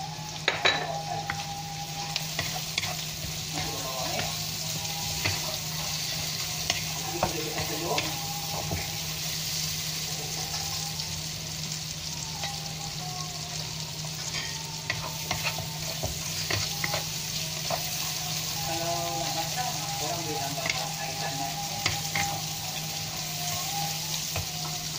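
Prawns and sliced onions frying in a pan, sizzling steadily while a wooden spatula stirs them, with scattered clicks and scrapes of the spatula against the pan. A steady low hum runs underneath.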